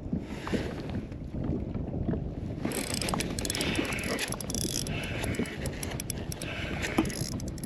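Wind buffeting the microphone over water sloshing around a kayak, with a brighter hiss coming in about a third of the way through and scattered light clicks from gear on the boat.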